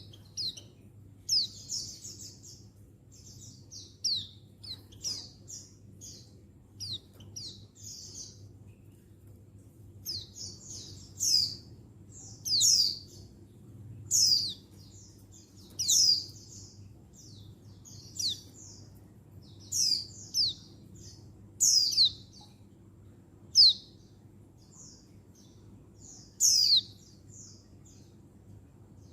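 Female white-eye (pleci) calling: short high chirps and quick downward-sweeping notes, repeated every second or two.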